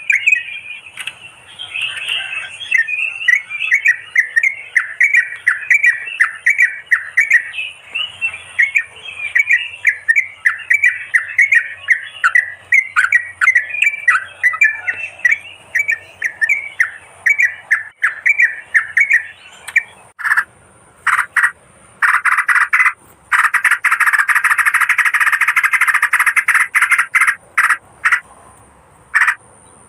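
Yellow-vented bulbul calls played as a trapping lure: a long, fast run of chattering notes. About twenty seconds in, they give way to harsher, noisier bursts and a dense stretch of scolding.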